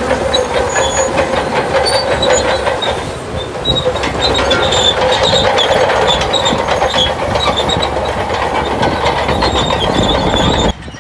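Crawler bulldozer working, its engine running with dense clanking and squealing from the steel tracks. The sound drops away suddenly just before the end.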